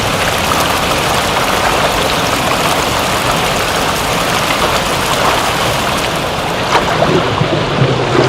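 Steady rain, a dense even hiss of falling water. Near the end a low rumble of thunder begins to rise.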